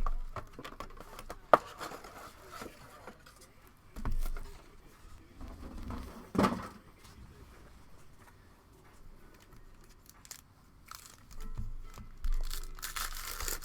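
Plastic trading-card pack wrappers crinkling and tearing in scattered bursts as a box of football cards is opened.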